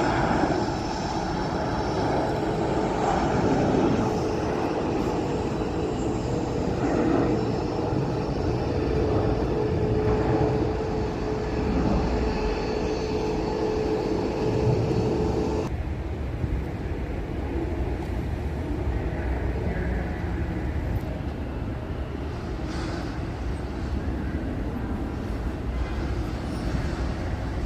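Jet airliner engines running, a dense rushing roar with a steady tone over it. About two-thirds of the way through, the tone and the higher part of the roar cut off suddenly, leaving a quieter rumble.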